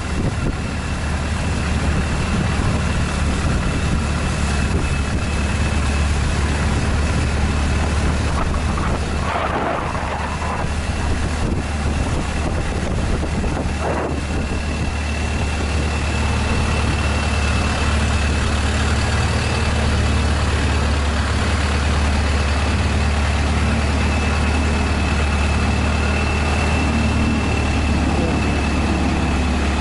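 Long-tail boat's engine running steadily at cruising speed, a loud low drone with a thin constant whine above it, under a rush of wind and water noise.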